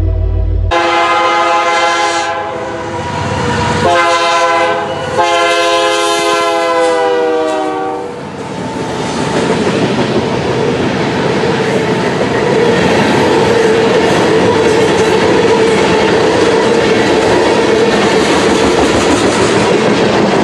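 Locomotive multi-chime air horn sounding three blasts, the last the longest, followed by a train passing close by with a steady rush of wheel and rail noise and a faint steady whine.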